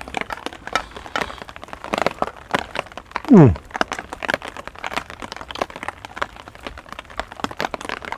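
Heavy rain, many sharp irregular drops striking close by each second. About three seconds in comes one short, loud tone that slides steeply down in pitch.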